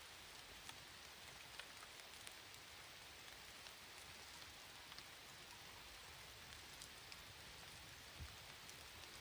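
Rain falling: a faint, steady hiss with scattered single drops ticking.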